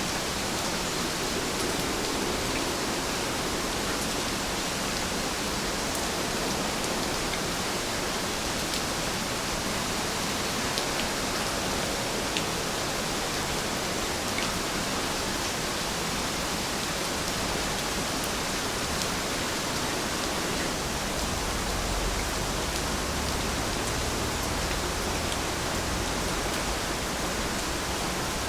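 Heavy rain falling steadily, an even hiss with a few faint drop ticks and a low rumble that comes up about three quarters of the way through.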